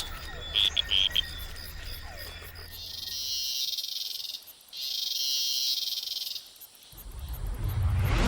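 Small frogs calling. A quick run of three short high chirps comes about half a second in. Then two long, high buzzing calls of about a second and a half each follow one after the other.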